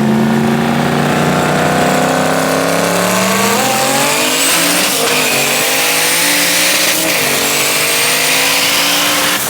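Performance car's engine running hard on a track, its pitch sliding slowly down for a few seconds and then rising and falling, with a thin high whine above it.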